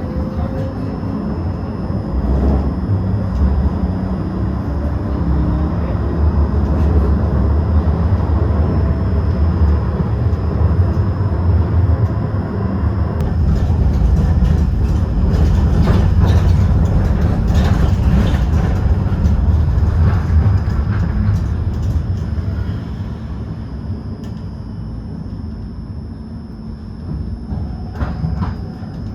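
Tram running on its rails: a steady low rumble with scattered sharp clicks and knocks from the wheels and track, louder through the middle and easing off after about 22 seconds, with a few more clicks near the end.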